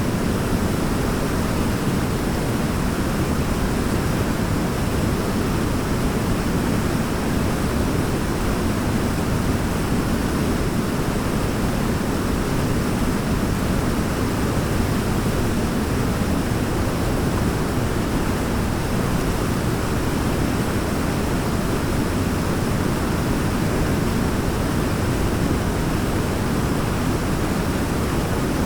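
Waterfall rushing: a steady, unbroken roar of falling water, heaviest in the low range, with no change in level.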